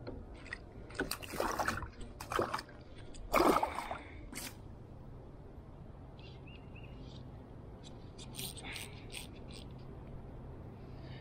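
Water splashing and dripping beside a kayak, a cluster of sharp splashes over the first few seconds and a lighter patter of splashes about eight seconds in, over a steady low rumble of wind.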